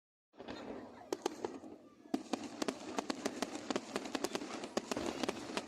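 Fireworks display going off: a quick series of sharp bangs and crackles over a steady hiss of bursts. It starts a moment in and grows denser from about two seconds in.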